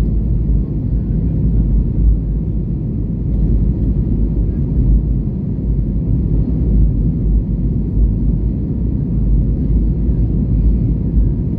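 Steady low rumble of an Airbus A320neo heard inside the passenger cabin: engine and airflow noise with no clear tones or sudden sounds.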